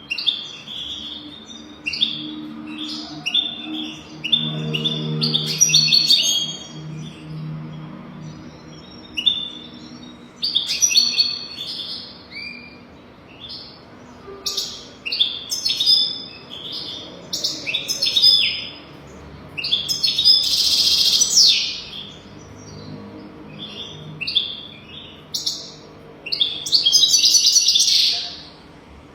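European goldfinch song: phrases of quick high twittering notes and buzzy trills, with short pauses between them. The two longest and loudest phrases come about two-thirds of the way in and near the end.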